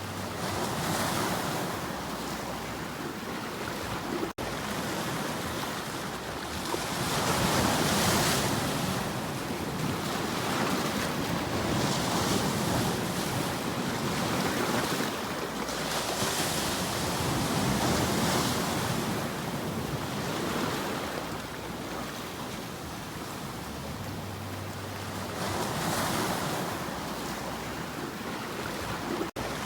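Ocean surf: waves breaking and washing in, the noise swelling and falling back every few seconds. Two brief dropouts break it, about four seconds in and near the end.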